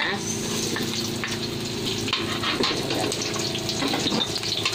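Chopped garlic and onion sizzling as they fry in a metal wok, with a metal spoon scraping and stirring them against the pan.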